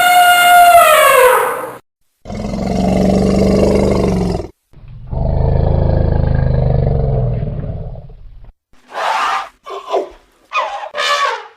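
Elephant calls: a brassy trumpet that falls in pitch at the start, then two long, low calls, then several short higher calls near the end.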